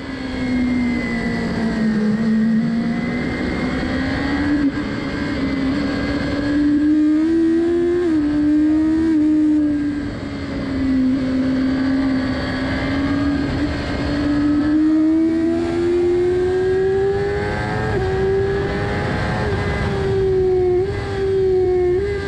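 Motorcycle engine at speed on a track lap, heard from an onboard camera: its note climbs under acceleration and sinks when backing off, with several quick steps in pitch at gear changes, over steady wind rush.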